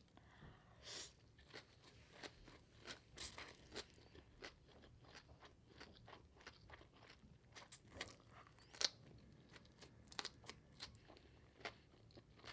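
Faint, close-miked chewing of crunchy food: scattered soft crunches and small mouth clicks.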